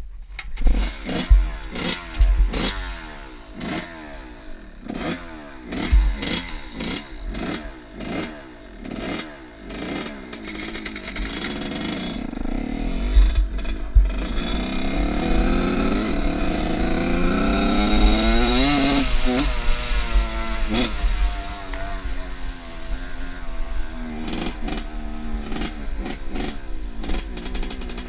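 Off-road vehicle engine revving in quick rising-and-falling blips amid knocks and clatter. It then pulls through one long rising rev that peaks about two-thirds of the way in, drops back, and runs on more steadily.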